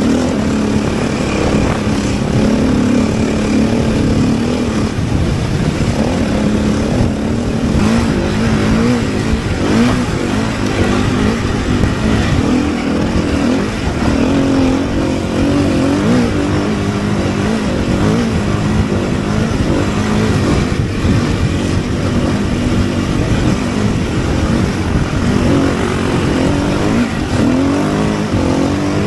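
Car engine running hard, its revs rising and falling, over a steady rush of road and tyre noise.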